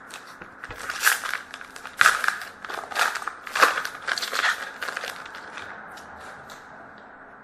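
A trading card pack's wrapper being torn open and crinkled: a run of sharp crackles lasting about four seconds, loudest about two seconds in.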